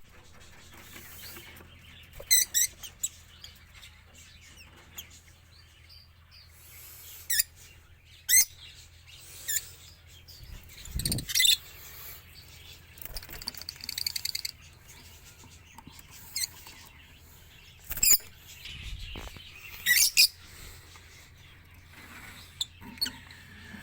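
Lovebirds calling: short, sharp, high-pitched chirps in scattered bursts, several of them loud, with a low steady hum underneath.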